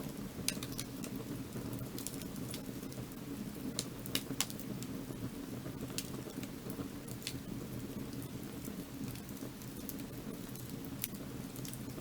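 Firewood burning, crackling with scattered sharp pops over a steady low rush, a quick cluster of pops about four seconds in.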